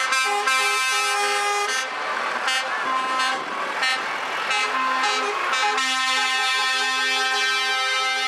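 Truck air horns blowing a series of blasts over the noise of passing trucks, then a long held chord of several horn tones from about six seconds in.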